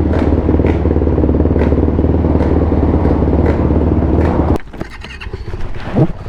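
Motorcycle engine running at a steady speed, then cutting off abruptly about four and a half seconds in, followed by a couple of short rising sounds near the end.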